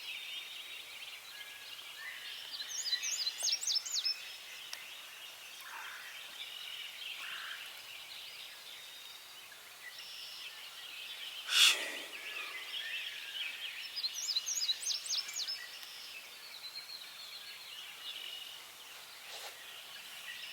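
Songbirds twittering steadily in a dawn chorus, with a quick high trilled song phrase from one bird twice, about three seconds in and again about fourteen seconds in. A brief loud noise close to the microphone cuts through about twelve seconds in.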